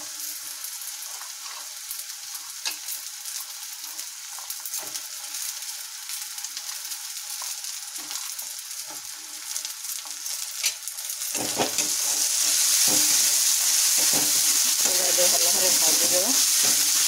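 Onions, ginger-garlic paste and freshly added green peas frying in hot oil in a steel kadai, sizzling with scattered taps and scrapes of a spoon stirring. About eleven seconds in, the sizzle suddenly grows louder into a steady hiss.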